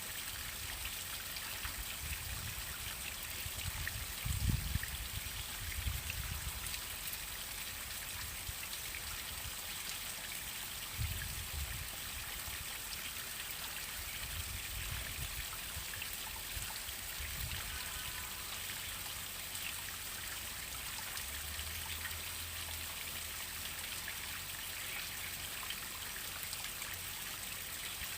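Waterfall: water falling and splashing steadily, a continuous hiss of spray and trickling, with a few brief low rumbles in the first half.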